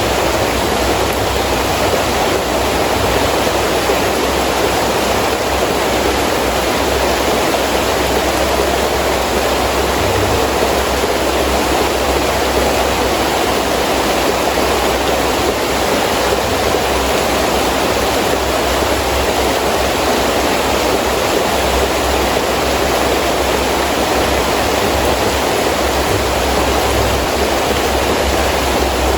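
Heavy rain pouring steadily in wind: a dense, even rush of noise with a low, wavering rumble of wind underneath.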